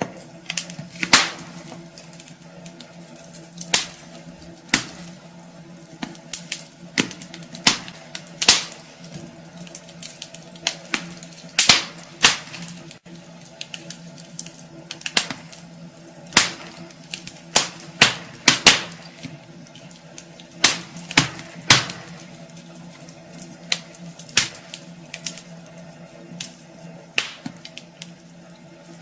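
Wood fire burning in a fireplace, crackling with irregular sharp pops and snaps every second or so, over a faint steady low hum.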